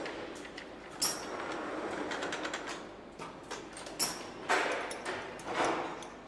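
Engine assembly-line workshop noise: a steady background din with sharp metallic clicks and knocks, about a second in and again around four seconds, followed by two short rushing swells near the end.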